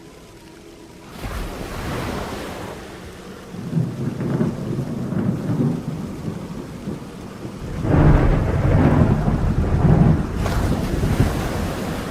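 Rain falling steadily with rolling thunder: a deep rumble swells about four seconds in, and a louder, longer roll comes about eight seconds in.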